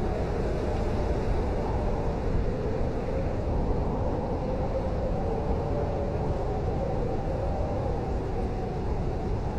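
Blizzard wind blowing steadily: a low rumble with a faint, slowly wavering howl above it.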